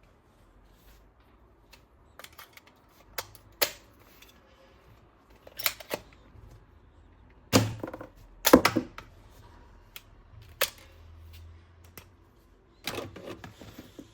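Irregular sharp clicks and knocks of hard plastic toy parts being handled, the loudest cluster about halfway through.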